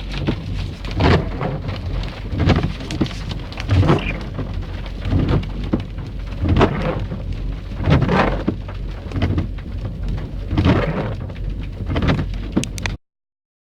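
Rain falling, a continuous rush with uneven loud surges every second or so; it cuts off suddenly near the end.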